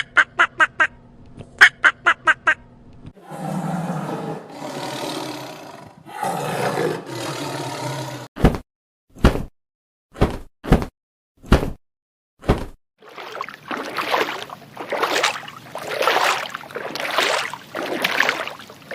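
A series of different animal calls edited one after another: a fast string of short pitched calls, then two long rough calls, a handful of sharp clicks with silence between them, and from about halfway on a run of repeated rough calls.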